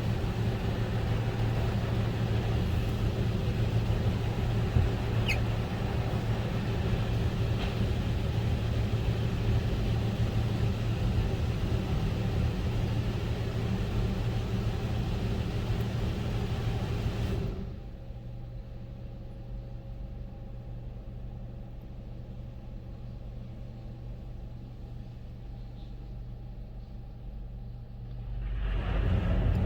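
Coleman Hanna Fusion X in-bay automatic car wash running with a loud, steady rush over a low hum. A little past halfway it cuts off abruptly to a quieter hum, then builds up again near the end.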